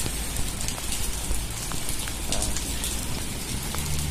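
Steady rain falling on wet pavement and leaves, with scattered drop ticks and a low rumble underneath.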